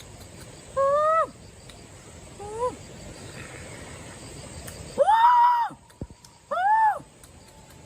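An animal calling four times: short cries that rise and fall in pitch, the loudest and roughest about five seconds in. A steady high insect drone runs underneath.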